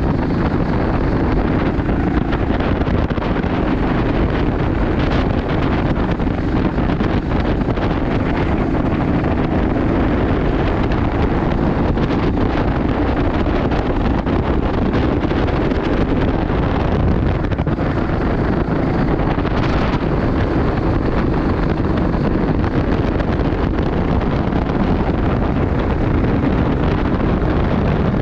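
Wind buffeting the microphone: a loud, steady rushing rumble.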